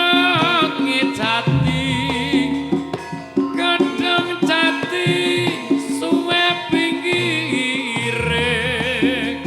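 Javanese gamelan music, the opening gending for a masked dance: hand-drum strokes keep a busy rhythm under a wavering melody with heavy vibrato, and deep low notes come in about one and a half seconds in and again near the end.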